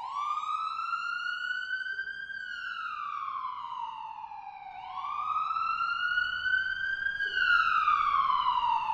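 Rescue truck's siren wailing: a slow rise and fall in pitch, twice over, louder on the second cycle, then cut off suddenly at the end.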